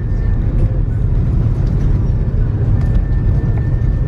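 Steady low rumble inside the cabin of an Airbus A330-300 taxiing on the ground after landing, with a faint thin steady tone.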